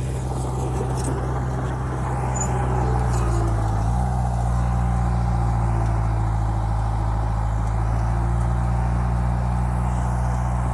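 Heavy dump truck's diesel engine running steadily, picking up revs slightly about four seconds in.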